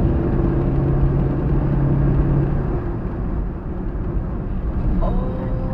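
Car engine and road noise heard from inside a moving vehicle: a steady low rumble with an engine hum that fades out after a couple of seconds.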